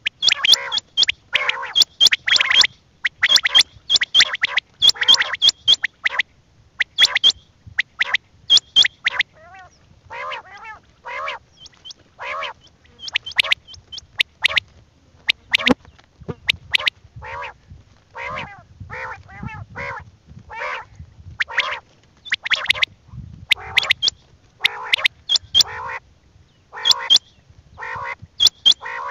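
Quail calling over and over in a rapid, loud series of short, nasal calls, each often starting with a sharp high note.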